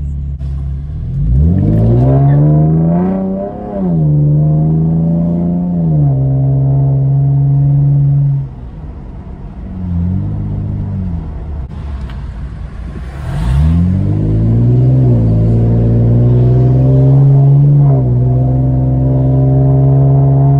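Camaro engine heard from inside the cabin, accelerating through the gears. The pitch climbs and drops at each upshift, eases off about eight seconds in, then climbs again from about thirteen seconds with two more shifts.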